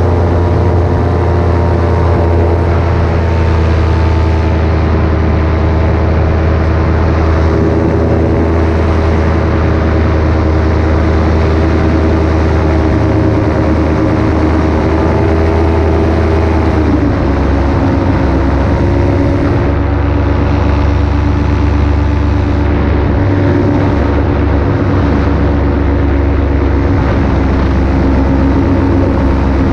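Paramotor engine and propeller running steadily in flight, loud and close; the pitch drops slightly about seventeen seconds in and holds there.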